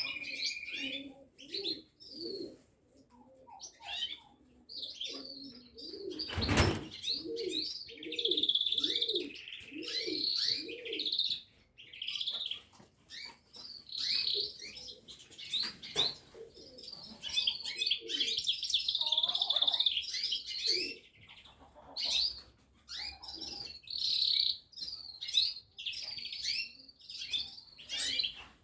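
Songbirds chirping and singing in quick, overlapping high phrases throughout. A run of lower, evenly repeated notes is heard for several seconds early on. A single sharp knock comes about six and a half seconds in.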